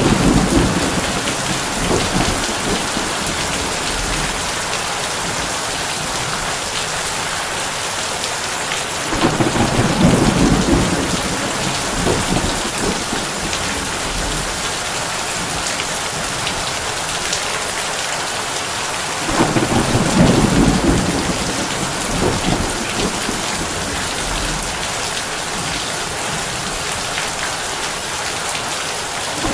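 Heavy rain drumming steadily on a tin roof, with low rolls of thunder swelling up at the start, about nine seconds in and again about nineteen seconds in.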